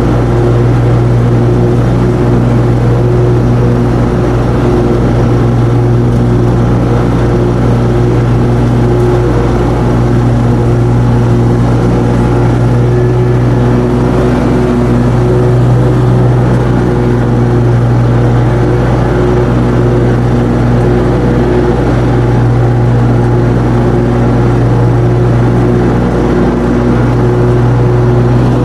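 Zero-turn mower engine running at a steady speed, an even, unbroken drone.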